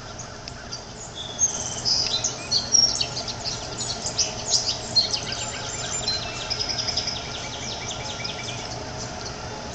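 A small bird chirping in a rapid run of short, high calls, busiest from about a second in and fading away after about seven seconds.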